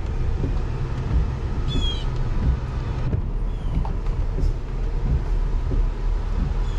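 Car cabin with engine and road noise, a steady low rumble, as the car drives slowly. A brief high chirp sounds about two seconds in.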